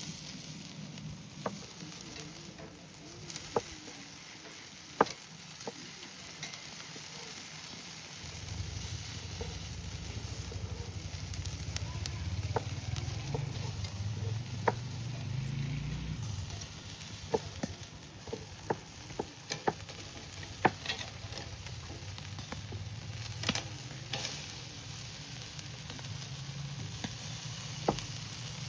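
Food sizzling and frying in a pot over a wood fire, a steady hiss with scattered sharp clicks. A low rumble joins from about eight seconds in and lasts for several seconds.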